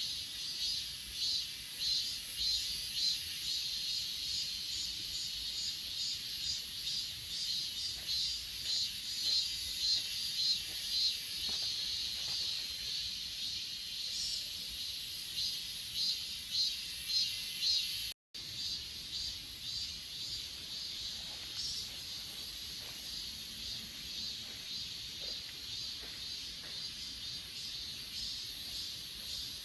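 A chorus of grass insects chirring in a dense, high-pitched, rhythmic pulse. The sound cuts out for a split second about two-thirds of the way through and continues more evenly afterwards.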